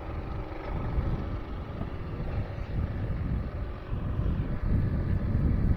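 Trailmaster MB200 mini bike's small single-cylinder four-stroke engine running while being ridden, with wind buffeting the microphone.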